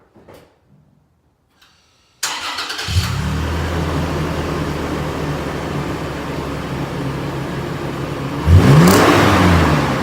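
2016 Toyota 4Runner's 4.0 L V6 breathing through a freshly installed MagnaFlow cat-back exhaust: cranked and started about two seconds in, settling into a steady idle. About eight seconds in it gets one quick rev that rises and falls back to idle.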